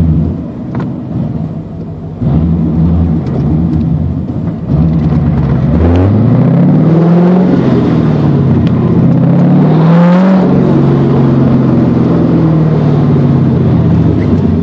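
Car engine heard from inside the cabin, running under acceleration. Its pitch rises twice, drops sharply about ten seconds in, then holds steady.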